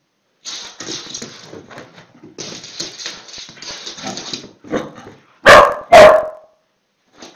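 A dog barks twice, very loud and close, about half a second apart, after a few seconds of softer scuffling noises.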